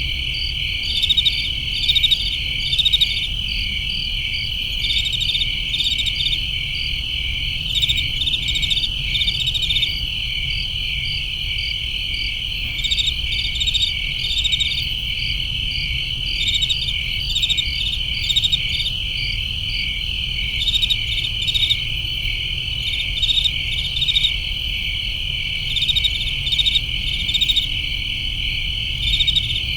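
A chorus of crickets chirping: a steady high trill with louder pulsed chirps coming in short clusters, over a faint low rumble.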